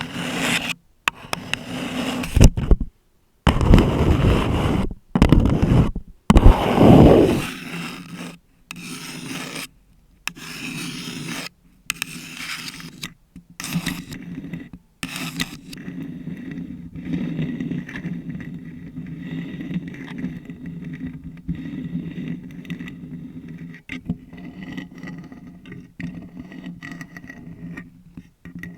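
Long acrylic nails scratching and rubbing on a paper cup and a bare Blue Yeti microphone, in irregular strokes broken by short silences. The strokes in the first seven seconds are the loudest, with a heavy low rumble; after about fifteen seconds the scratching turns softer and steadier.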